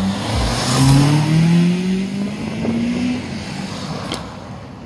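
Toyota Celica accelerating past, its engine note rising steadily in pitch for about three seconds, loudest about a second in, then fading as it drives away.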